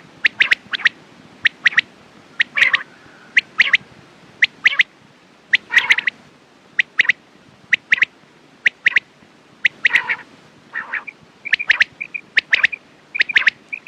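Quail calling: short, sharp notes repeated over and over, often in quick groups of two or three.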